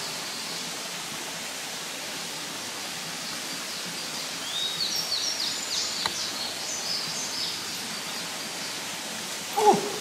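A small songbird sings a run of quick, high chirps from about four seconds in to about eight seconds, over a steady rushing hiss of outdoor background noise. A person's voice breaks in loudly just before the end.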